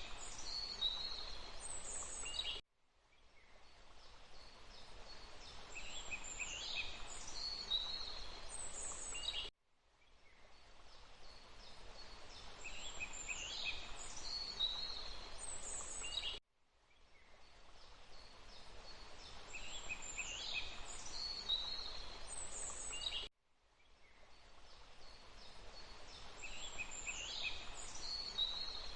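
Steady rushing water with several short, falling bird calls, from one recording of a few seconds looped over and over: each pass fades in from silence, the birds call in its latter half, then it cuts off abruptly, about every seven seconds.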